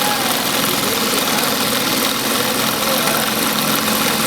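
Industrial sewing machine running, a steady, even mechanical whir with no pauses.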